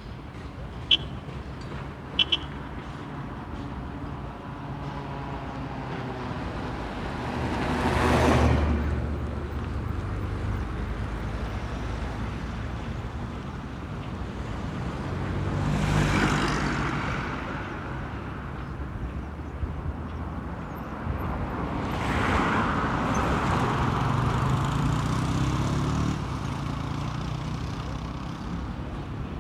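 Road traffic: motor vehicles pass one at a time over a steady traffic hum, each rising and fading away. The passes come about eight seconds in, again around sixteen seconds, and as a longer one from about twenty-two seconds. Two short sharp clicks sound near the start.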